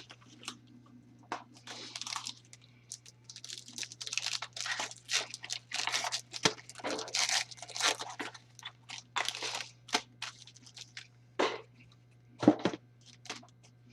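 Trading card pack wrapper being torn open and crinkled, with irregular crackling and rustling as the packaging is handled.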